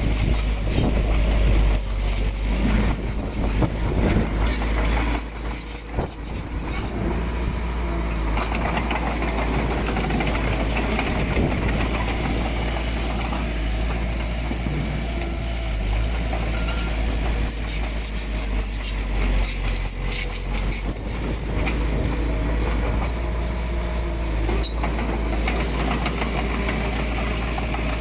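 Diesel engine of heavy earthmoving machinery running steadily, with bursts of high-pitched clatter over the first few seconds and again about two-thirds through.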